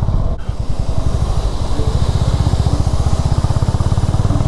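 Honda H'ness CB350's single-cylinder engine running at a steady riding pace, its exhaust pulsing rapidly. A hiss of rushing water rises under it through the middle.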